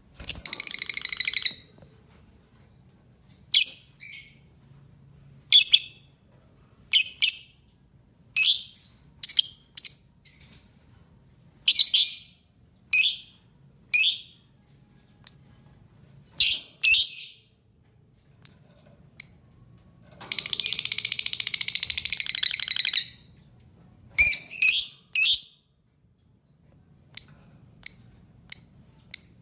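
Lovebird calls played as a lure recording: a string of short, high, shrill chirps about a second apart. There is a chattering burst in the first second and a half, and a longer chattering stretch of about three seconds past the middle.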